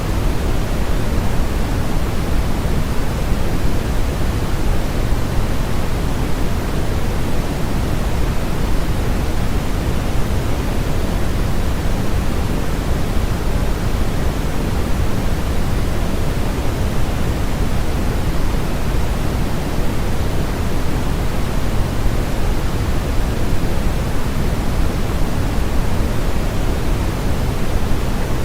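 Steady synthetic sleep noise of the kind sold as white noise: a constant, even rush, fuller in the low end than in the hiss, with no change in level or character.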